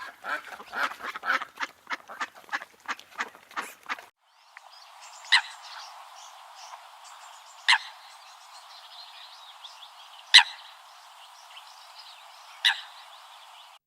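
Ducks quacking in a quick run of calls for about four seconds. After an abrupt cut, four single short calls sound about two and a half seconds apart over a steady background hiss.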